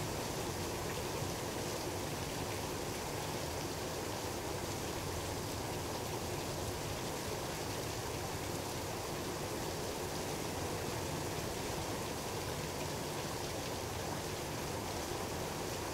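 Steady rain falling during a thunderstorm, an even hiss at a constant level with no thunderclap.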